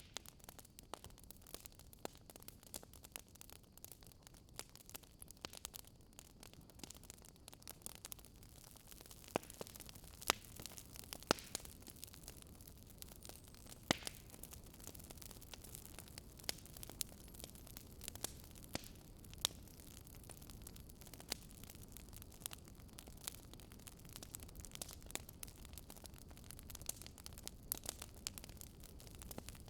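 Wood fire crackling: irregular sharp pops and snaps over a low, steady hiss and rumble, with a few louder pops in the middle.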